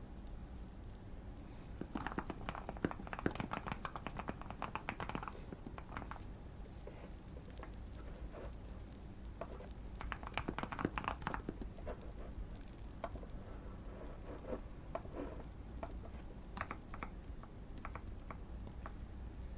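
Typing on a custom Keychron Q1 mechanical keyboard with Fierce Girl switches: two quick runs of keystrokes, about two seconds in and again around ten seconds in, with scattered single key presses between them.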